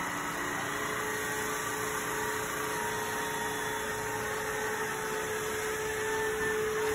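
ILIFE W90 cordless wet-dry floor cleaner running steadily: an even motor and brush-roller noise with a steady hum and a higher steady tone.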